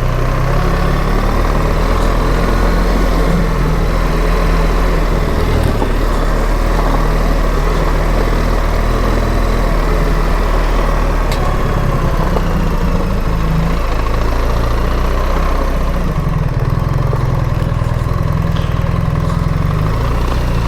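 BMW R 1300 GS motorcycle's boxer-twin engine running steadily, mixed with a steady rush of noise.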